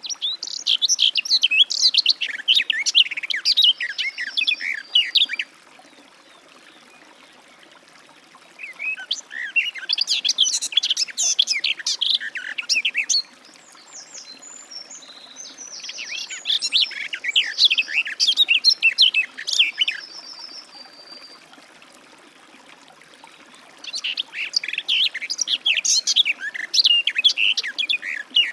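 Garden warbler singing: four long bouts of fast, rich warbling, each lasting about four to five seconds, separated by pauses of a few seconds.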